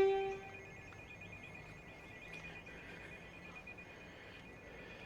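A brief loud single-pitched hoot right at the start, then a faint electronic warning bell ringing steadily in rapid pulses.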